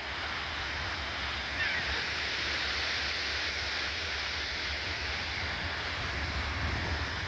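Steady rush of surf on a beach, with wind buffeting the microphone in a low rumble.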